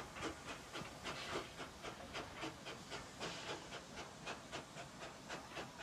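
Z19 class steam locomotive 1919 working with a steady exhaust beat, about four chuffs a second.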